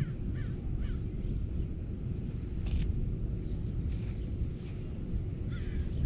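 Bird calls: a few short, downward-bending calls in quick succession in the first second, and fainter ones later, over a steady low rumble. A brief scratchy sound comes about two and a half seconds in.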